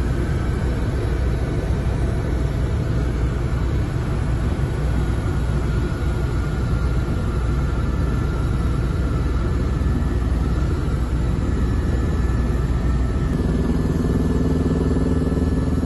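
Ecureuil helicopter's turbine and rotor running steadily in flight, a loud continuous rumble. Near the end a few low sustained tones of music fade in over it.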